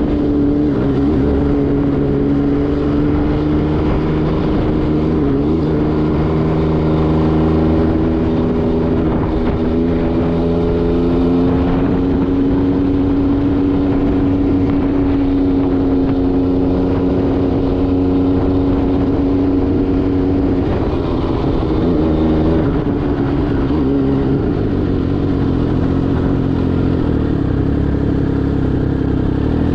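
MV Agusta Brutale 800RR's three-cylinder engine through an SC Project exhaust, running at a fairly steady engine speed while riding. The note breaks briefly about 21 seconds in, then holds steady again.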